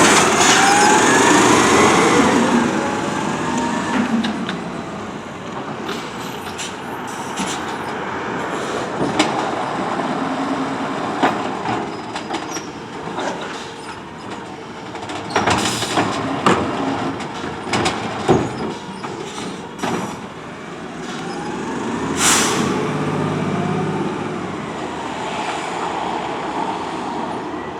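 Autocar ACX automated side-loader garbage truck at work: its engine and hydraulics run with a whine that rises and falls near the start and again near the end, broken by short sharp air-brake hisses, the loudest about halfway through and again two-thirds of the way in.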